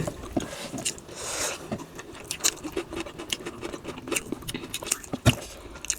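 Eating sounds at a meal of bhakka and chicken gravy: scattered small clicks and taps of food being handled on a plate, with a short rustle about a second and a half in.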